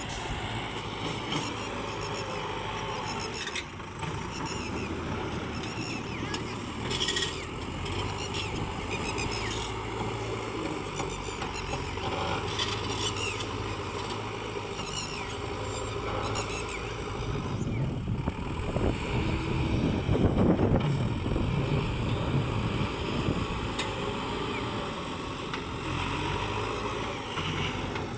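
Road vehicle engines running, with a vehicle getting louder and passing close about two-thirds of the way through; faint voices in the background.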